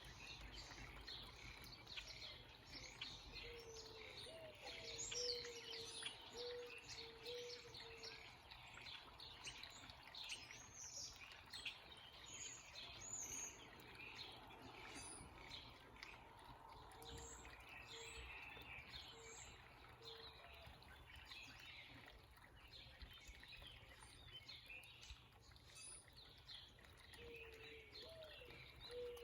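Faint backyard birdsong: many small birds chirping and calling over one another. Short runs of a low, repeated note come in three spells.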